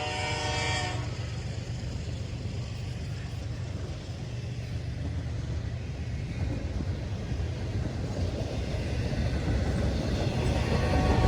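Train horn sounding a chord that cuts off about a second in, followed by the low rumble of the train running by, growing louder toward the end.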